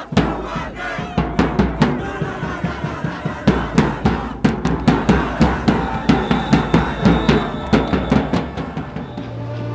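Drumming: a steady, fast beat of strikes, roughly three a second, that ends near the close.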